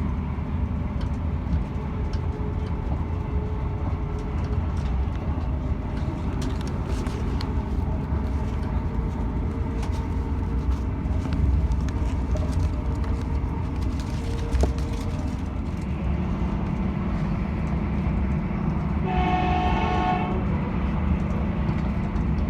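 Steady low rumble of a passenger train running, heard from inside the carriage. A train horn sounds once, briefly, about nineteen seconds in.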